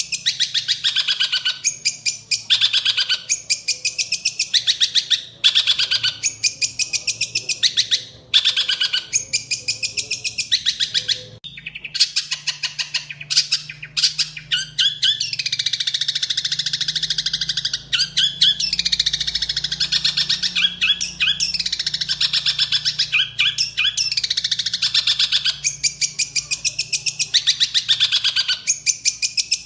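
Long-tailed shrike (cendet) singing loudly: fast, harsh chattering phrases of rapid notes, separated by short pauses at first and running together into a near-continuous stream of falling, scratchy sweeps in the second half.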